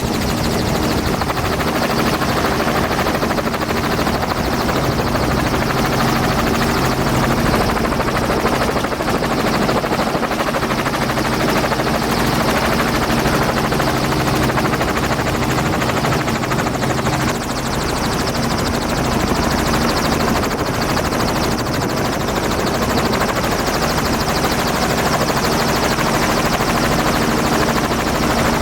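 Dirt bike engine running steadily at speed, with wind and rushing noise on the mount or helmet camera.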